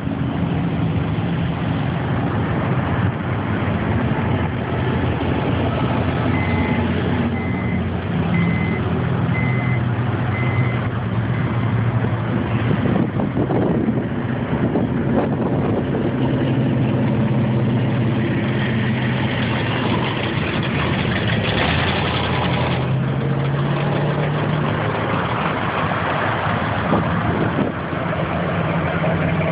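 Car engines idling and moving in slow traffic, their pitch shifting as they pull along. Partway in come about six short, high beeps, roughly one a second.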